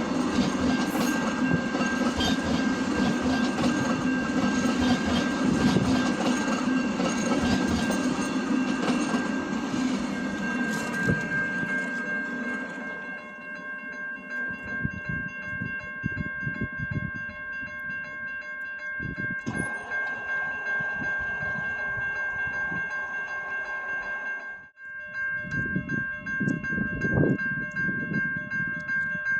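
A train passes with loud wheel and rail noise that fades after about twelve seconds. A steady ringing tone, likely a level-crossing bell, runs throughout and stands out once the train has gone.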